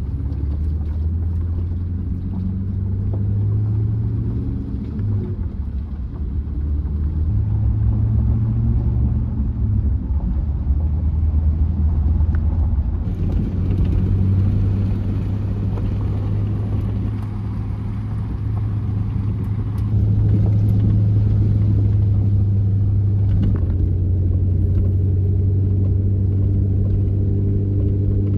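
Truck being driven: steady engine and road rumble, the engine note stepping up and down several times as speed changes.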